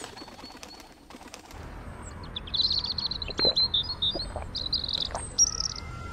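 Small birds chirping in quick high runs from about two and a half seconds in, over a low steady rumble, with a few sharp clicks near the start.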